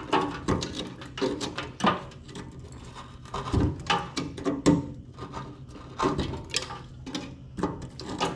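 Irregular scraping and small knocks, about one or two a second, as a tool breaks up a hardened mud dirt dauber nest inside an old welder's sheet-metal cabinet.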